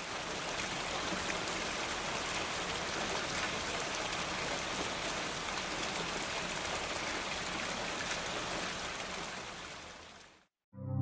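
Steady hiss of running water with fine patter, fading in and fading out about ten seconds in, followed by a brief silence.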